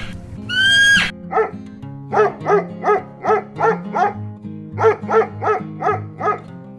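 A horse whinnies once, about half a second in, then a dog barks about a dozen times in quick, even succession, in two runs with a short pause between, over steady background music.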